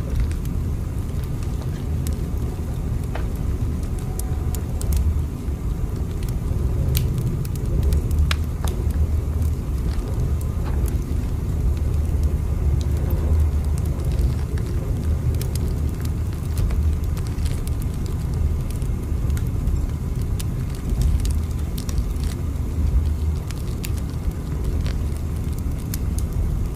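Steady low rumble of a moving train, with scattered faint clicks and crackles over it.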